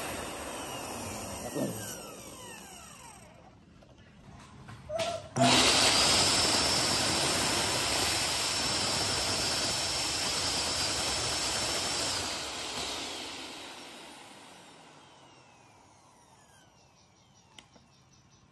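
Small electric motor running with a loud whirring hiss. It is cut off a few seconds in, then started again about two seconds later, runs steadily for about six seconds, and is switched off, winding down with falling pitch over several seconds.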